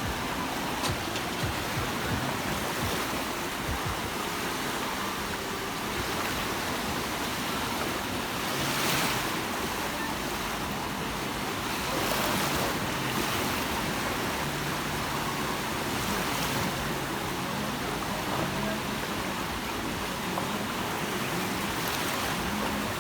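Sea waves breaking and washing on the shore: a steady rush of surf that swells louder a couple of times as bigger waves come in.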